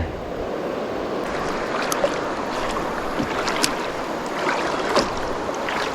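Steady rush of river water running over rocky shoals, with a few faint clicks.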